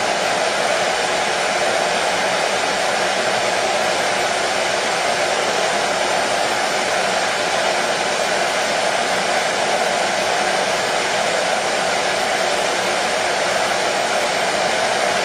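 Hair dryer running steadily: a constant, even rushing hiss, strongest in the middle of the range, with no change in speed.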